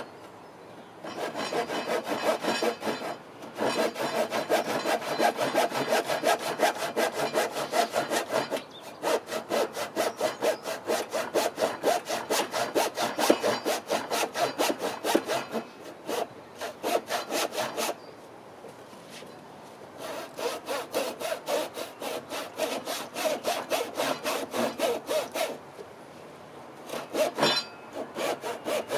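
Hand saw cutting through wood in long runs of quick, even back-and-forth strokes, with several short pauses between bouts.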